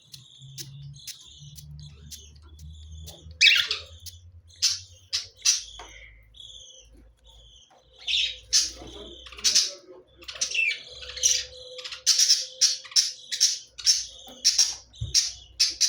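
Small pet parrots chirping and squawking in quick short calls, with one loud call about three and a half seconds in and the calls coming thick and fast near the end.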